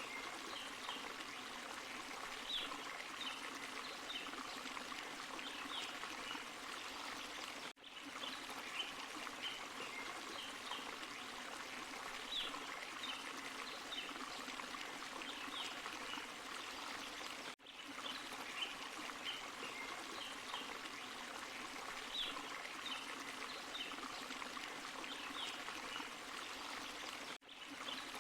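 Forest stream and small waterfall running over rocks: a steady rush of water with many short, high plinks over it. The sound drops out for a split second about every ten seconds.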